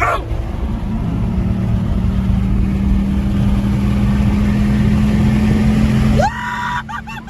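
Car engine at full throttle, pulling hard through a highway roll race, heard from inside the car: a loud steady drone whose pitch creeps slowly upward, then cuts off abruptly about six seconds in as the throttle is lifted.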